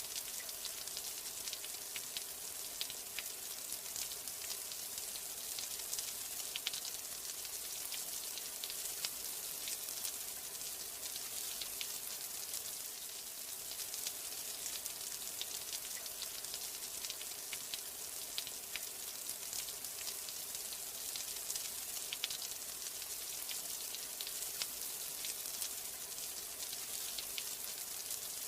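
Steady rainfall: an even hiss with many small, sharp drop ticks scattered through it.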